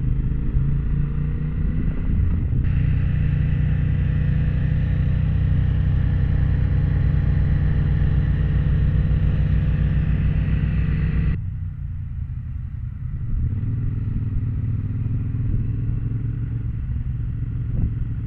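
Motorcycle engine running steadily at riding speed, with wind and road noise over the bike. The sound changes abruptly about three seconds in and again about eleven seconds in, where it drops a little in level.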